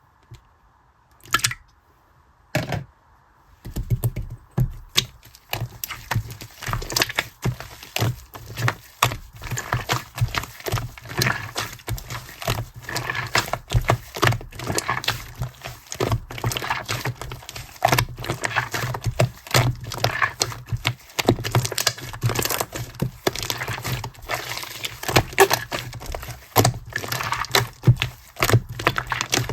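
Clear teal slime being kneaded by hand with shaving foam: after two single clicks, a dense, continuous run of small crackling and popping squishes begins about four seconds in.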